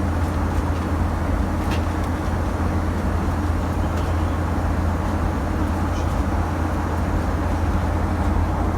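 Steady cabin noise of a Boeing 737-900ER in flight: an even low engine and airflow rumble with a hiss over it, and a faint click about two seconds in.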